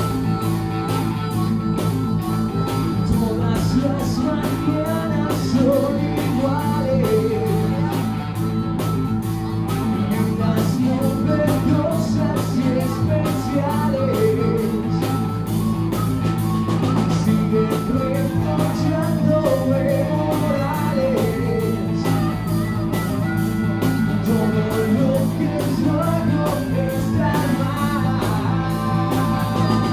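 A live rock band with a blues feel plays: electric guitar, bass and drums, with a wavering lead melody over them.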